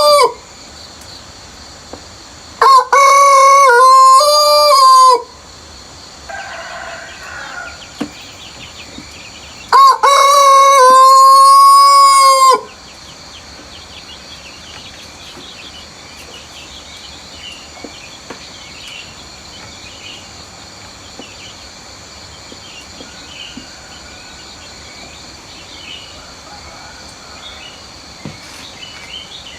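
Rooster crowing loudly: the end of one crow right at the start, then two full crows a few seconds apart, each about two and a half to three seconds long. A fainter call comes around six seconds in. After the second full crow only a steady countryside background is left, with small high bird chirps.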